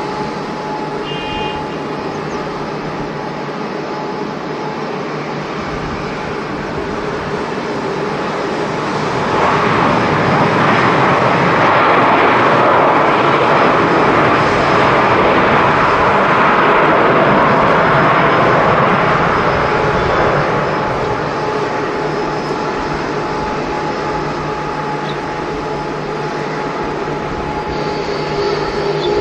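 Jet airliner's engines passing by, a steady rushing noise that swells about a third of the way in, holds at its loudest for about ten seconds, then fades back over a constant background hum.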